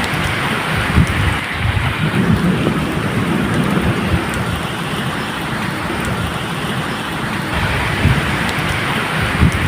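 Steady medium rain falling, with low rolling thunder rumbling underneath.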